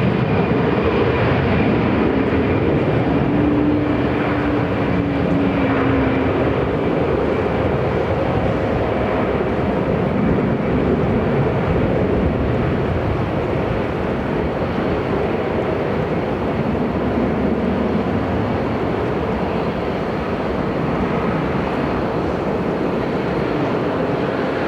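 Jet airliner's engines, heard close by as a loud, steady noise that eases a little about halfway through.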